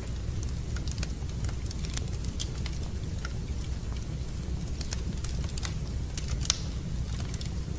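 Fireplace fire crackling, with irregular sharp pops and snaps over a steady low rumble of the flames; one louder pop comes a little past six seconds in.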